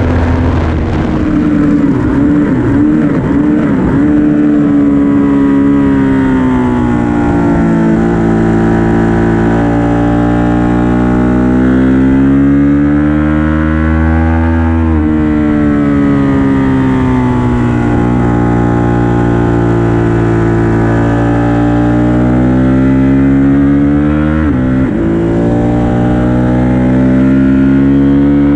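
Ducati 1199 Panigale S's Superquadro L-twin engine at full track pace, heard onboard from behind the fairing. The engine note climbs and falls again and again as the bike accelerates, changes gear and brakes, with a sharp drop and recovery late on.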